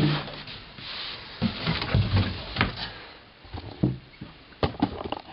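Unboxing handling sounds: cardboard and packing being moved about, with a few knocks as the projector and its box are handled on a desk.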